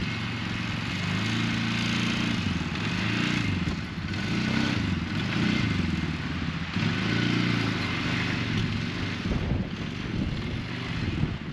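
An engine running steadily, its pitch rising and falling again and again as it works under varying load.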